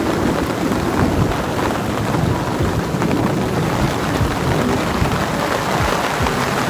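Heavy rain pouring down steadily in a thunderstorm, with a low rumble of thunder underneath.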